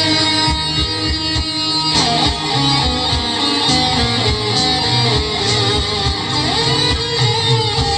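Electric guitar playing a lead lick over a backing track with bass, with string bends about two seconds in and again near the end.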